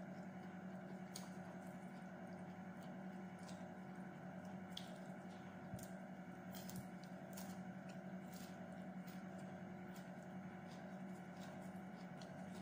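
Close-up eating sounds of a person chewing fresh herbs and lettuce: soft wet squishy mouth noises with scattered short crisp clicks, over a steady low hum.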